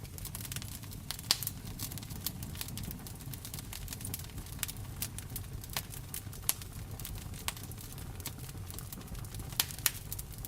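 Wood fire crackling in a fireplace: sharp, irregular pops, the loudest about a second in and twice near the end, over a steady low rumble with rain.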